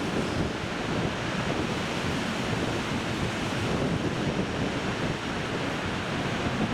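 Strong wind buffeting the microphone: a steady, rushing roar with no distinct events.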